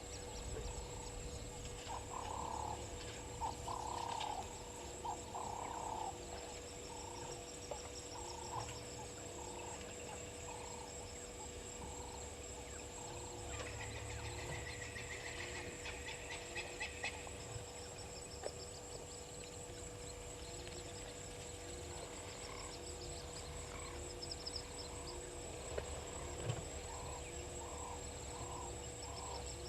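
Waterhole wildlife ambience: short calls repeating in steady series, about two a second later on, over a thin steady high whine, with a burst of bird chirping midway.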